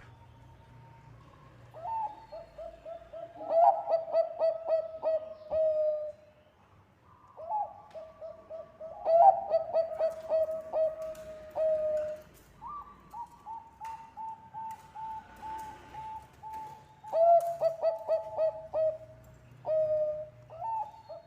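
Bangkok-type zebra dove (perkutut) singing its staccato cooing song: several phrases, each opening with a rising note and running into a quick string of short coos.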